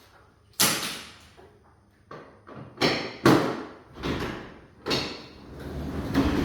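Sectional garage door and its metal hardware clanking: about five sharp metal knocks, then a rattling rumble building near the end as the door is worked.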